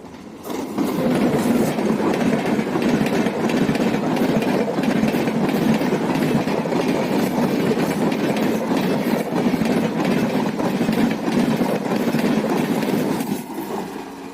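A train passing close by: a loud, steady rumble with wheels clicking over the rail joints, building up about half a second in and fading away near the end.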